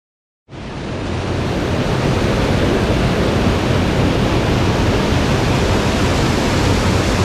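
Rushing water of a mountain stream, a dense, steady roar that fades in quickly about half a second in after dead silence.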